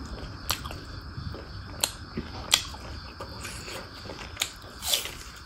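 Close-up eating sounds: chewing with short, scattered wet mouth clicks and smacks. Near the end there is a louder crunch as a bite of raw onion is taken.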